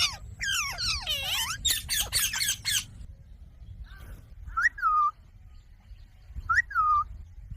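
Green parrot calling: a run of shrill, squawking calls for about three seconds, then two short separate calls that rise and fall, about two seconds apart.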